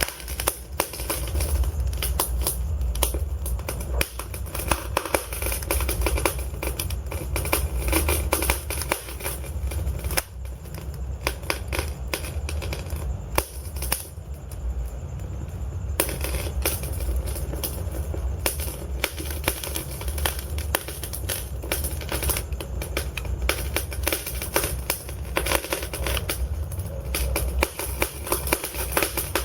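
Wood fire in a fireplace crackling and popping steadily, over a steady low rumble. The crackles thin out for about two seconds midway, then pick up again.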